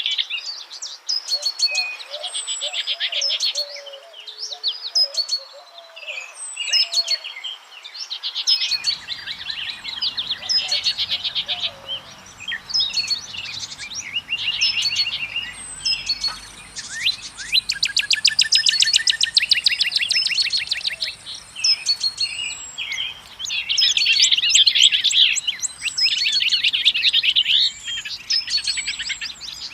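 Many small songbirds chirping and singing over one another, a dense mix of short high notes and whistles. A fast trill of rapidly repeated notes runs for several seconds around the middle.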